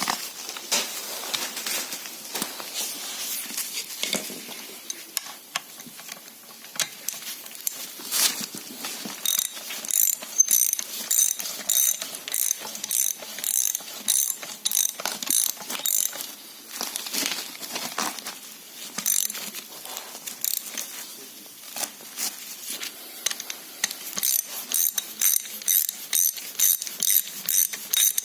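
A ratchet mechanism clicking in runs of even clicks, about three a second, during work on a KNORR brake caliper, with lighter knocks of handling in between.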